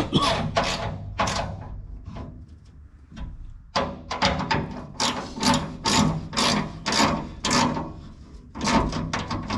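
Hand wrench working a bolt tight on a combine's straw chopper: a run of short metallic strokes, thinning out a couple of seconds in, then coming evenly at about two a second from about four seconds in.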